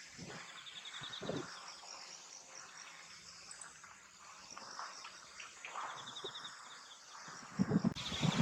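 Field insects chirring steadily, with a pulsed trill that comes twice, and a few soft low thumps, the heaviest near the end.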